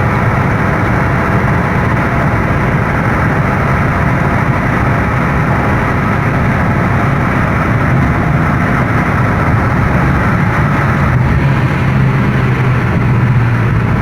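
Honda Brio Satya's 1.2-litre four-cylinder engine running under way at road speed, mixed with steady road and tyre noise; the engine note shifts slightly about eleven seconds in.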